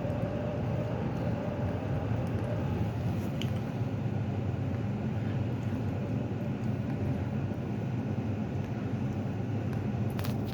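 HVAC equipment running with a steady low hum, with a couple of faint clicks.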